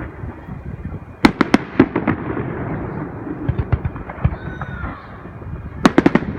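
Aerial fireworks shells bursting: a quick cluster of sharp bangs about a second in, lighter crackling pops in the middle, and another rapid cluster of bangs near the end.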